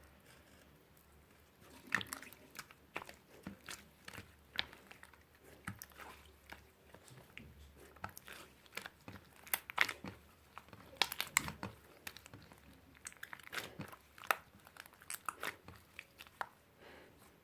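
Irregular crunching and crackling close to the microphone, starting about two seconds in: many sharp crunches at an uneven pace, with a few louder clusters.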